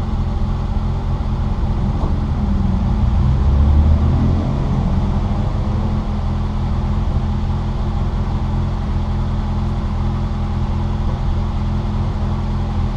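Citroën Saxo VTR's 1.6-litre four-cylinder engine heard from inside the car, running hard at fairly steady revs under racing load, with road and wind noise. It swells briefly about three to four seconds in.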